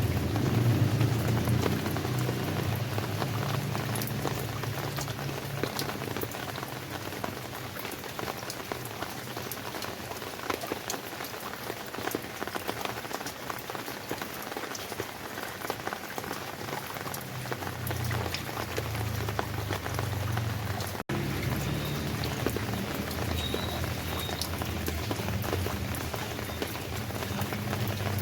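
Steady rain falling, many separate drops pattering onto surfaces, with a low rumble underneath that swells at the start and again in the second half. The sound cuts out for a split second about 21 seconds in.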